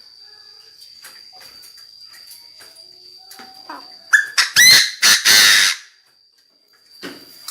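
Chinese francolin (decoy bird) giving its loud, harsh call: a quick series of grating notes about four seconds in, lasting under two seconds. Under it runs a faint steady high-pitched whine.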